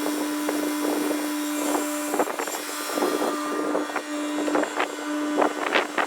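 An engine running steadily at an even pitch, with irregular knocks and clatters over it, coming thicker from about two seconds in.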